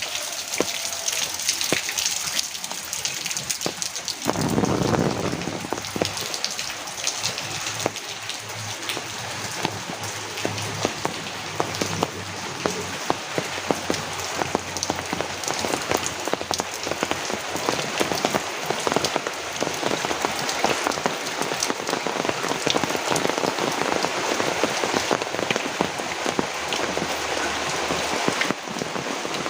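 Heavy rain pouring steadily, with a dense patter of drops striking a nearby surface. About four seconds in, a deeper swell of sound rises for a couple of seconds over the rain.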